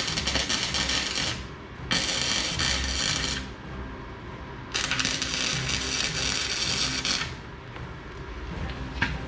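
Power tool working on rusty metal in three bursts of a couple of seconds each, a harsh metallic hiss with short pauses between.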